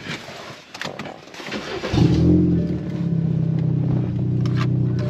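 Car engine starting about two seconds in, after a few light clicks: it catches at once, flares up briefly, then settles into a steady idle. The owner runs it with the mass airflow sensor unplugged, which sets off the check engine light.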